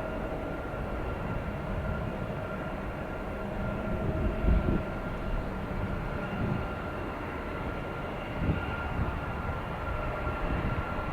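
Jet engines of an arriving Airbus A330-200: a steady low rumble with a thin, steady whine over it, and a couple of brief low thumps about four and eight seconds in.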